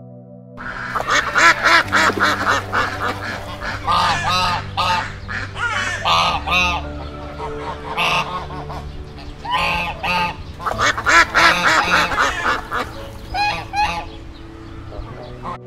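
A flock of white domestic ducks quacking: many loud, overlapping calls in quick succession, starting about half a second in.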